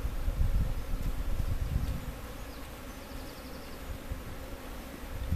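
Honey bee swarm buzzing steadily, the massed hum of many bees, with a low rumble on the microphone during the first two seconds.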